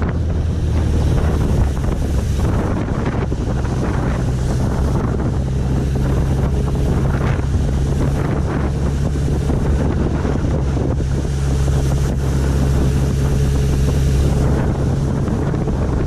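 Wind rushing over the microphone with the steady drone of a 1991 Suzuki GSX1100F's inline-four engine, riding at a constant speed.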